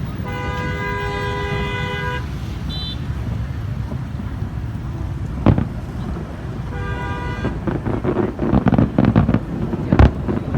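A two-note vehicle horn sounds for about two seconds, then again briefly about seven seconds in. Sharp fireworks bangs come about five and a half seconds in and near the end, with a spell of rapid crackling just before the last bang.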